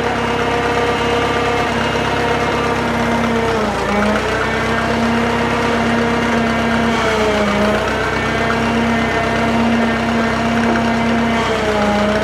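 Drott 85RM2 crane's engine running steadily, its pitch dipping briefly three times.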